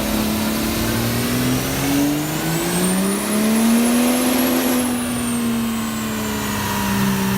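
Car engine slowly building revs and easing back off, with a thin high whine rising and falling along with it.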